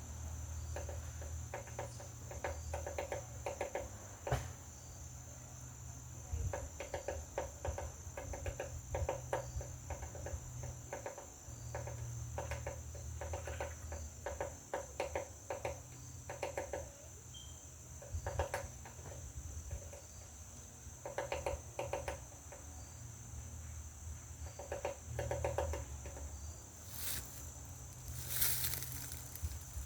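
Woodpecker pecking on a wooden butterfly house: bursts of rapid taps repeated every second or two, over a steady high-pitched insect buzz.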